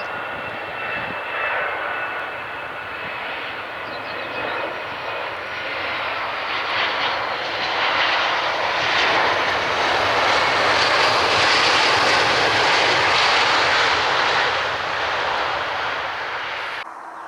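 Airliner engines passing close. A rushing noise with a faint whine early on swells for about ten seconds to a peak, then eases and cuts off suddenly near the end.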